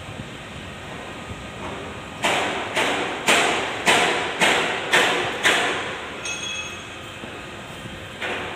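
Impact wrench driven in about eight short, loud bursts roughly half a second apart, each cutting in sharply and dying away, as bolts are run in.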